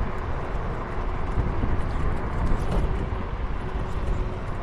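Wind rushing over the microphone and road noise while riding along, with a faint steady hum.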